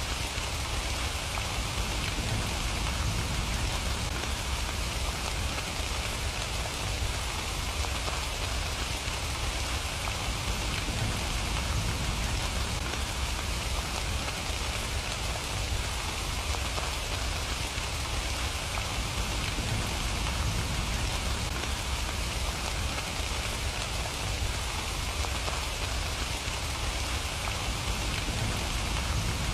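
Steady rain falling, an even unbroken hiss of drops with a deep low rumble underneath.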